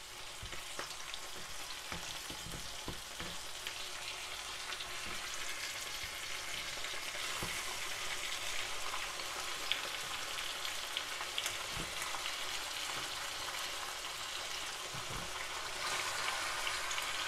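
Sliced onions frying in butter in a hot pot, sizzling steadily while raw chicken pieces are laid in on top, with occasional low knocks as the pieces are set down.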